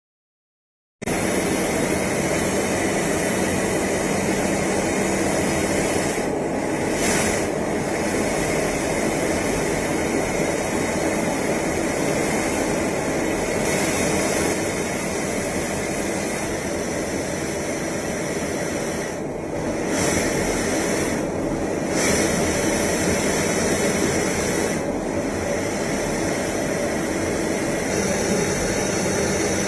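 Jet aircraft in flight: a steady, even rushing noise that cuts in about a second in and holds without change of pitch.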